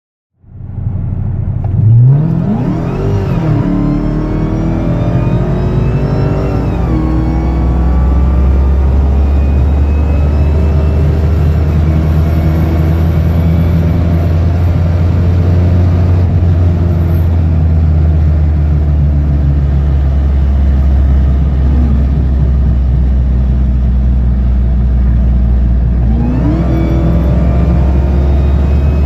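Supercar engine accelerating hard, its pitch climbing and dropping at gear changes over the first several seconds, then holding a steady loud drone at speed, with the pitch rising again near the end.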